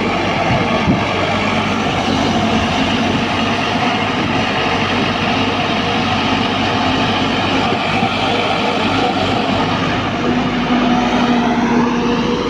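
A heavy diesel engine runs steadily and loudly under load. Its pitch rises near the end as it revs up.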